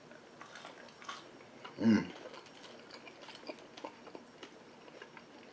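Faint chewing with small mouth clicks and crackles while eating fries. About two seconds in there is one short vocal sound, a brief hum or murmur.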